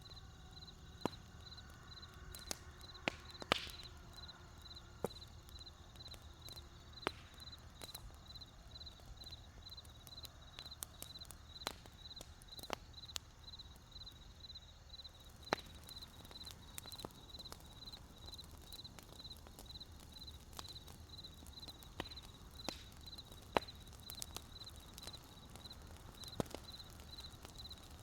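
Campfire wood burning with scattered sharp crackles and pops over a low, even rumble, and a cricket chirping steadily in a high, evenly repeating pulse throughout.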